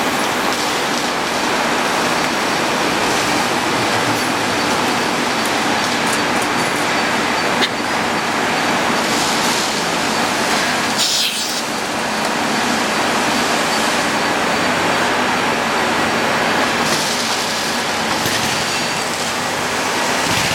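Induction hardening machine running: a steady loud mechanical noise with a faint hum. There is a sharp click about seven and a half seconds in and a brief rustle about eleven seconds in.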